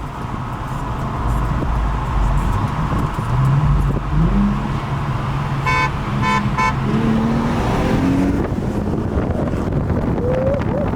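Car engine pulling away, its pitch climbing in steps as it accelerates, over a low rumble. Three short horn beeps come in quick succession about six seconds in.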